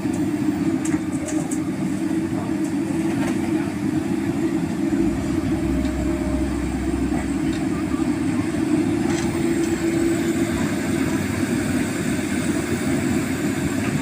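Diesel excavator engine running steadily under load, with a deeper rumble for a couple of seconds midway.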